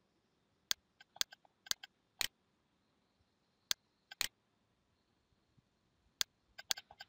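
A computer mouse clicking about a dozen times at an uneven pace, single clicks with a quick run of several near the end.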